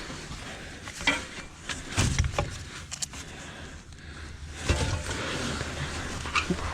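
Rustling and scraping of a person moving about in a dusty crawl space, with several sharp clicks and knocks and a low thud about two seconds in and another near the end.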